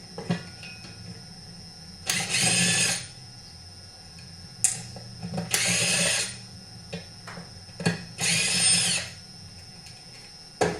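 A handheld power driver runs in three bursts of about a second each, backing out the fasteners of a chainsaw's reed intake manifold. Sharp clicks and knocks fall between the bursts.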